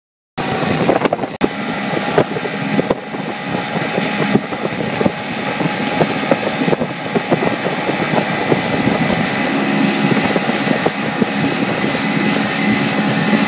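1995 Johnson 70 hp two-stroke outboard running with the boat under way, cutting in abruptly about half a second in, with wind buffeting the microphone.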